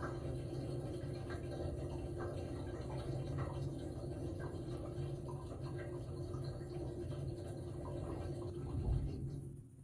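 Dishwasher running, heard from inside the machine through a waterproof dive case: a steady pump hum with water spraying and splashing against the case. The sound drops away abruptly near the end.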